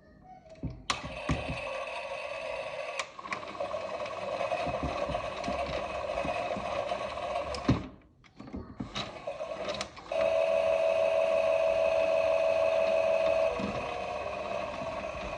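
Klein Miele battery-powered toy washing machine running: a steady small-motor hum with clicks. About halfway it stops for a moment and then starts again, and a louder steady tone lies over the hum for a few seconds before dropping back.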